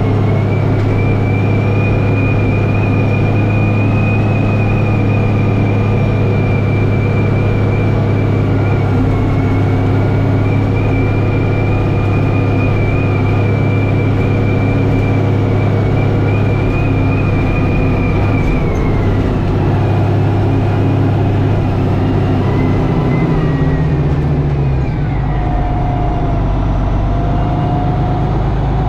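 Tractor engine running steadily while plowing, with a high, even whine over the engine note. The whine falls away about two-thirds of the way through, the engine note shifts, and a lower whine comes in near the end.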